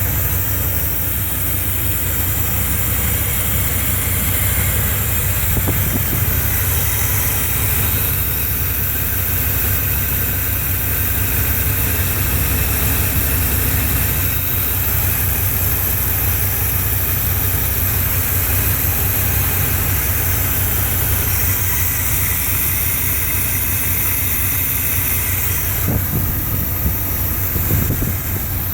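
Chevrolet 350 (5.7-litre) V8, converted from throttle-body injection to an Edelbrock 600 CFM carburetor, idling steadily. It is running really good on its first start in two years.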